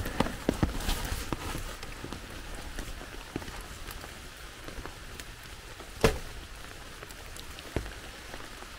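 Steady rain pattering on wet grass and leaves, with scattered drops ticking and one louder knock about six seconds in.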